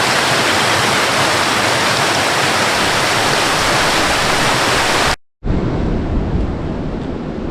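Waterfall rushing steadily with a bright, even hiss. About five seconds in it cuts off abruptly, and after a split second of silence a deeper, duller rushing sound takes over.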